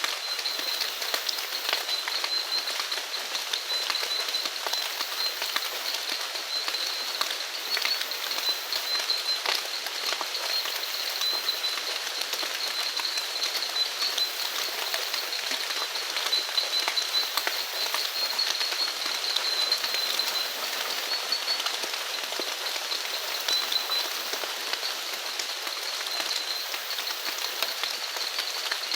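Steady rain falling, with scattered individual drops ticking close by. A high, steady animal call pulses along underneath it.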